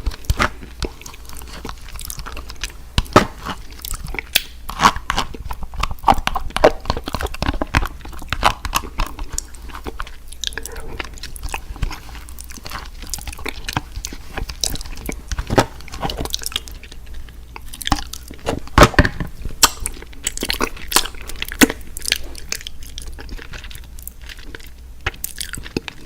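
Close-miked eating sounds of fast-food fried chicken and fries: crunchy bites and wet chewing, with irregular sharp mouth clicks and smacks throughout.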